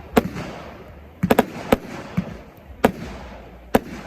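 Fireworks going off: a run of sharp bangs at uneven spacing, about seven of them, with a quick cluster of three a little past one second in.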